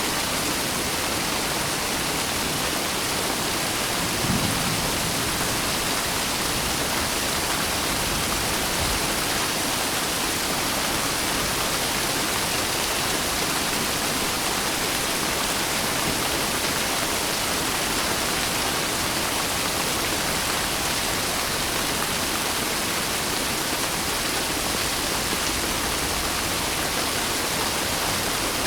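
Steady rain, an even hiss, with a brief low thump about four seconds in.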